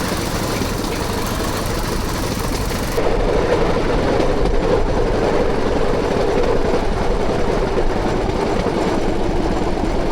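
Bamboo train's small engine running under the riders' platform, loud and steady, getting louder about three seconds in.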